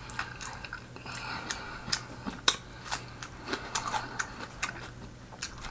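A person chewing soft pasta casserole close to the microphone, with irregular small mouth clicks and smacks, roughly three a second.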